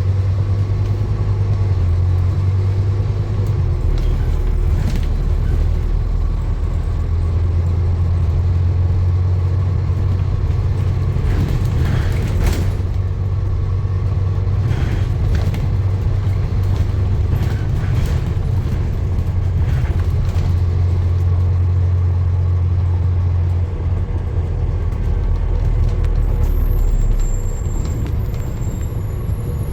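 A motor vehicle running with a steady low rumble, and a thin high-pitched whine near the end.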